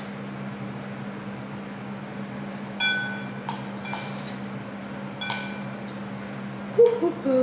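A utensil clinks against a bowl twice, each strike ringing briefly, over a steady low hum. A short low vocal sound comes near the end.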